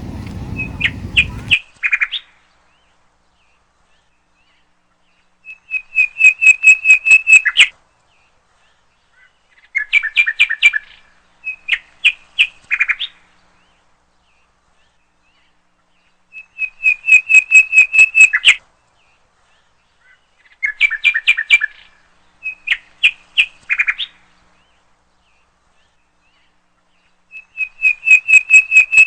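Small songbird chirping in phrases of quick, rapid notes, separated by dead silence; the same phrases recur about every eleven seconds, a looped bird-song recording. A low background rumble cuts off abruptly about a second and a half in.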